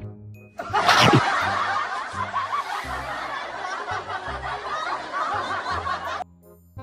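Canned laughter sound effect over a background music beat, with a quick downward swoosh about a second in; the laughter cuts off suddenly near the end.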